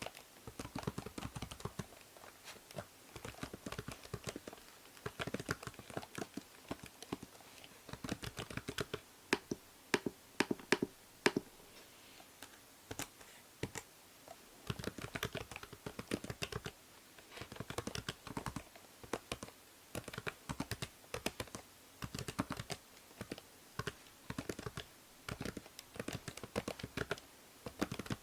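Computer keyboard typing in quick runs of keystrokes broken by short pauses, recorded through a binaural microphone with a steady hiss underneath.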